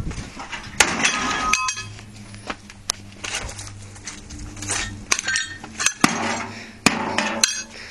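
A microwave oven being smashed apart: a string of sharp knocks, several followed by ringing clinks as loose metal and glass pieces clatter.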